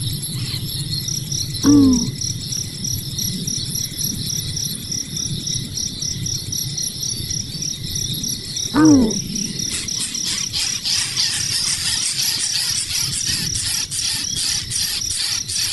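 Insects chirping steadily in rapid, even high pulses, growing louder about ten seconds in. Two short, loud calls slide downward in pitch about seven seconds apart.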